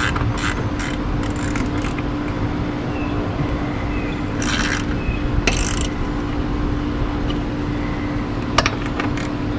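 Socket ratchet clicking as the jet ski's intake-grate bolts are run back in, rapid even clicks at first, then two short rasping bursts about halfway through and a few single clicks near the end, over a steady low hum.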